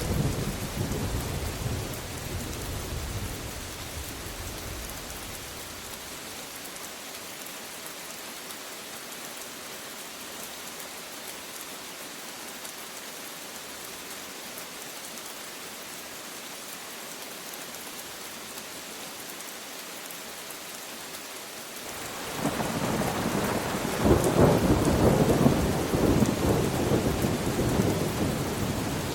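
Steady rain falling, with a roll of thunder dying away over the first few seconds. A second, louder roll of thunder rumbles in about 22 seconds in and peaks a few seconds later.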